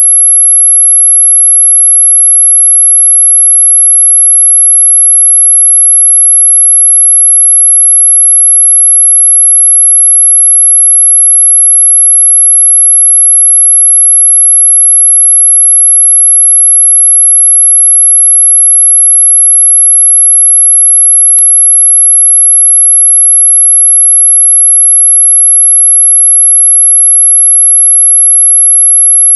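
A single loud, very high-pitched steady sine tone, an electronically generated "anti-mosquito" repellent tone held at one pitch without a break. A brief click sounds about two-thirds of the way through.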